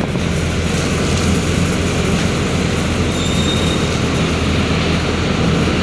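Mercedes-Benz OF-1721 BlueTec 5 bus's six-cylinder diesel engine running steadily, a loud low drone with rumbling and rattling noise over it.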